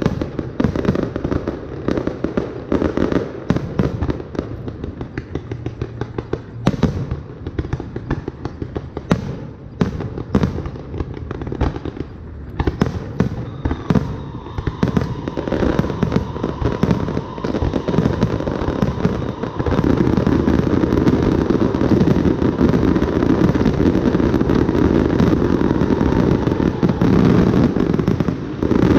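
Fireworks display: a string of shell bursts and crackles that, about two-thirds of the way in, builds into a louder, dense, continuous barrage.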